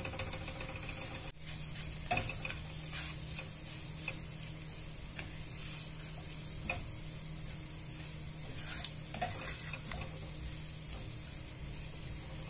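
Onion-tomato masala sizzling in coconut oil in an aluminium pot while a silicone spatula stirs it, with scattered soft scrapes of the spatula against the pot. The masala is being fried down until it is roasted through.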